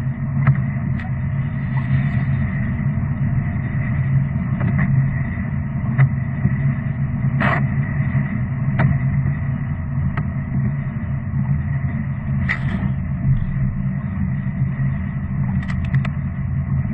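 A steady, low engine drone with a faint high whine running over it, broken by a few brief clicks.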